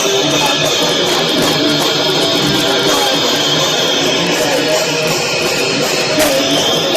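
A punk band playing live through a club PA: loud, distorted electric guitars and bass in a dense, steady wall of sound, recorded with heavy distortion and poor quality.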